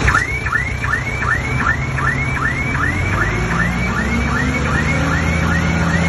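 A rapid, repeating electronic chirp, about three or four sweeps a second, starts suddenly and keeps going over the low running of a heavy diesel engine.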